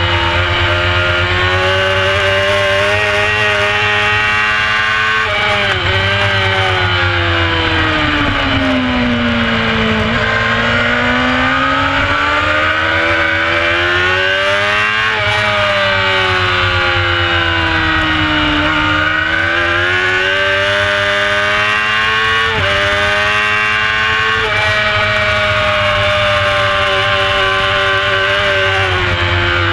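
Honda CBR600 F4's 600cc inline-four engine at full racing pace, heard from on board: revs climb and fall around the lap, with quick gear changes heard as sudden jumps in engine pitch.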